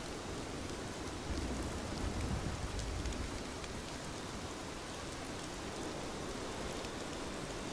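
Steady rain falling, with faint scattered drop ticks. About a second in, a low rumble swells for about two seconds, then fades back into the rain.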